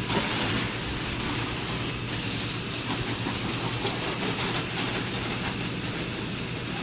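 Water spraying from a hose onto a car body as it is rinsed off, a steady hiss that gets stronger about two seconds in, over a steady low hum.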